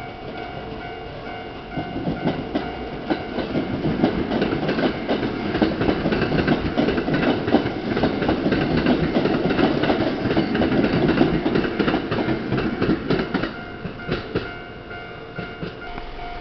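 Kintetsu limited express train passing a level crossing, its wheels clattering over the rail joints. The clatter builds about two seconds in and eases off near the end, while the crossing's warning bell keeps ringing throughout.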